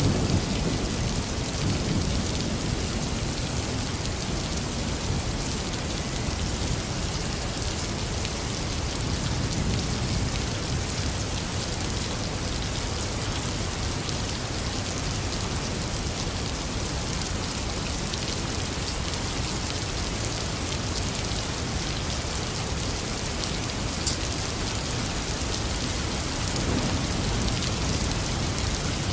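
Heavy rain falling steadily with low rolls of thunder. The rumbling is strongest at the start, swells again about a third of the way in, and returns near the end.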